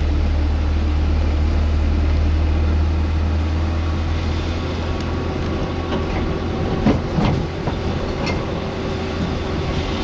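Car driving, heard from inside: a steady low road and engine rumble, with a few knocks and rattles about seven seconds in.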